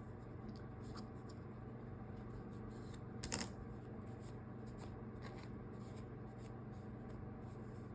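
Fabric rustling as a small sewn cloth doll piece is handled and worked, with one sharper rustle about three seconds in, over a steady low hum.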